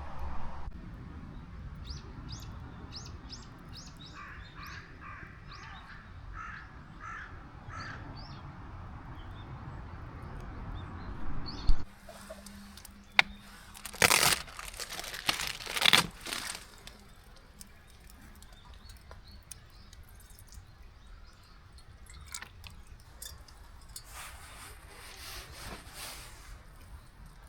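Birds calling outdoors: a run of short, high chirps and a series of repeated harsher calls in the first several seconds. About halfway through come a sharp click and a few loud, noisy bursts.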